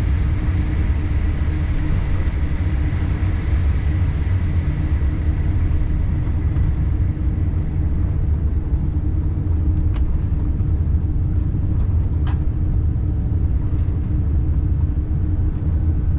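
Steady low rumble inside the cabin of a Boeing 787-8 rolling on the ground after landing, with a hiss that eases over the first few seconds and two faint clicks in the second half.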